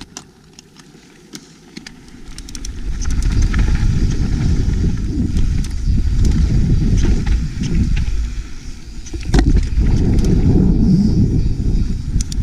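Loud, uneven low rumbling with scattered knocks and rattles from moving down a rough rock trail, starting about two seconds in, with one sharp knock about nine seconds in.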